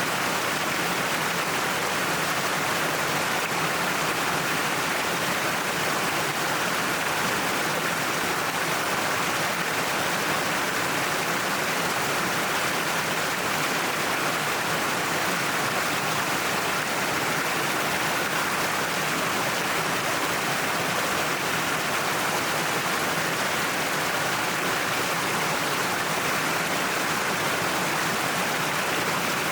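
Cliffside waterfall: water falling and splashing in a steady, unbroken rush.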